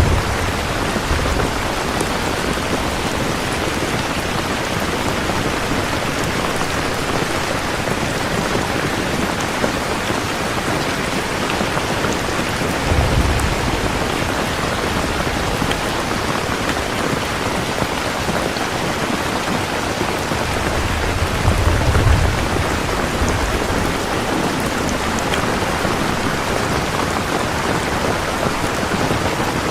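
Steady heavy rain, a dense even hiss, with two low rumbles of thunder: one about a third of the way in and a louder one about two-thirds through.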